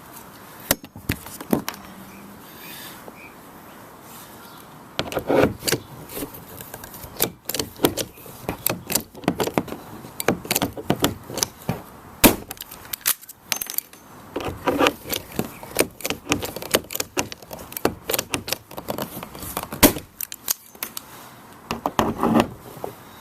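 Irregular clicking and clattering of hand tools and hardware being worked on a kayak. It starts about five seconds in.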